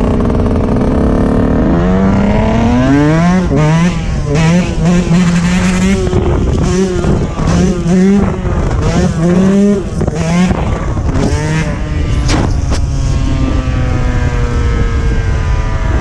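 Dirt bike engine revving, its pitch climbing and dropping again and again as the throttle is worked, then settling into a steadier run with a slowly falling pitch.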